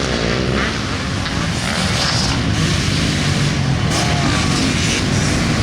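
Motocross dirt bikes running laps on the track, engines revving and shifting in pitch as they pass.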